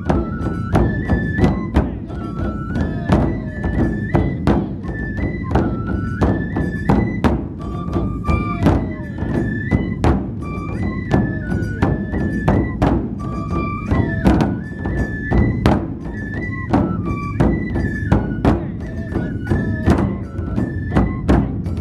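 Festival drum music: big taiko drums beaten in a steady, quick rhythm under a high bamboo-flute melody that steps between a few notes.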